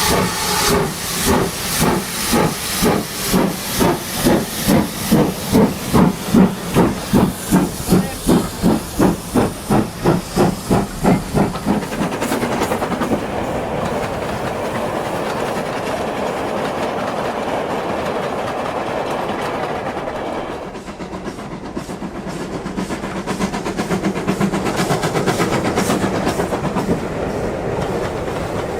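Steam locomotive chuffing with hiss, the exhaust beats regular and quickening slightly, then after about twelve seconds giving way to a steady running rumble of the train.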